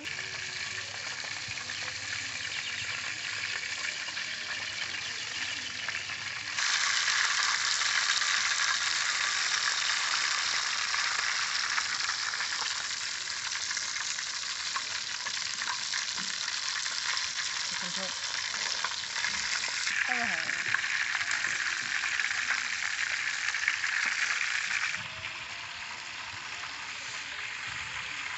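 Food frying in hot oil in a steel wok, a steady sizzle that gets louder about six seconds in and drops back near the end, with occasional scrapes and clicks of metal spatulas.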